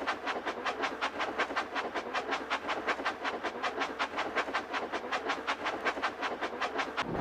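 Cartoon steam-train chugging sound effect: an even rhythm of about six chuffs a second.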